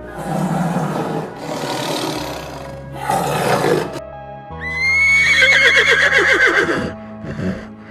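Horse whinnying: a high call that breaks into a trembling, falling series, after three short breathy bursts, over background music.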